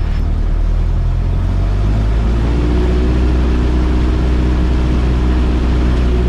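Cessna 172S Skyhawk's four-cylinder Lycoming IO-360 engine running during a pre-takeoff run-up on the ground. The engine note changes about two seconds in, then holds a steady drone.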